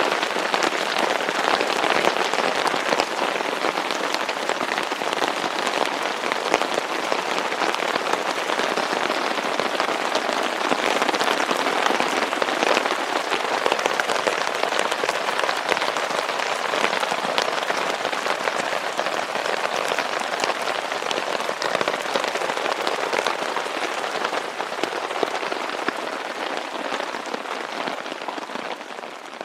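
Steady rain falling, a dense hiss made of many small drop hits, fading away near the end.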